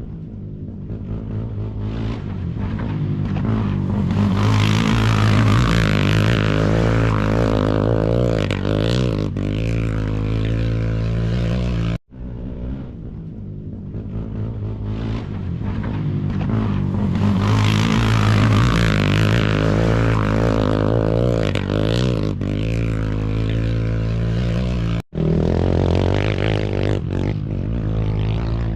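Engines of off-road racing vehicles running hard through a curve, each swelling in level over a few seconds with a wavering, throttle-driven pitch. The sound cuts off abruptly twice, about 12 and 25 seconds in, and starts again.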